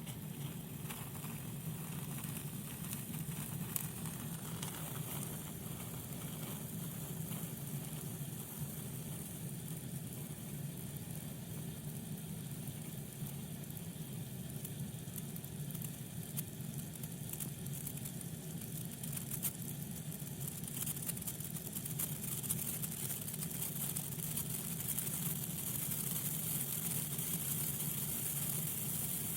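Senko hanabi sparkler sizzling and crackling, the fine crackles growing denser and louder in the second half as the sparkler reaches its fullest sparking, over a steady low hum.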